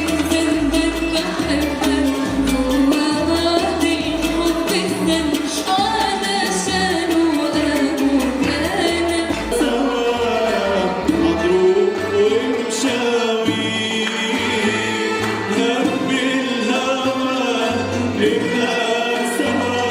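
A choir singing Arabic songs with an instrumental ensemble, the voices moving in melodic lines over a steadily stepping bass.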